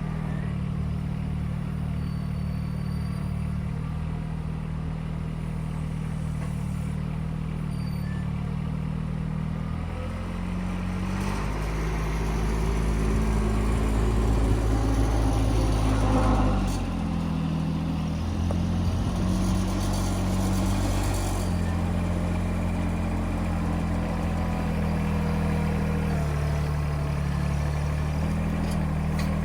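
An engine running steadily, with a louder, deeper rumble for about six seconds from around eleven seconds in before it settles back.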